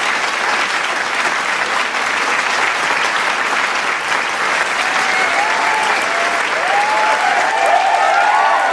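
Large crowd applauding steadily, with voices cheering over the clapping from about halfway through.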